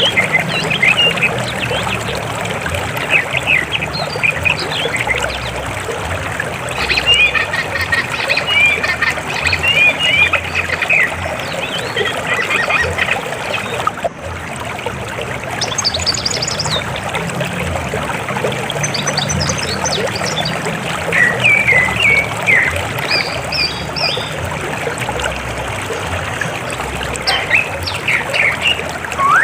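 River water flowing and trickling in a steady rush, with birds chirping in short scattered phrases over it. The sound dips briefly about halfway through.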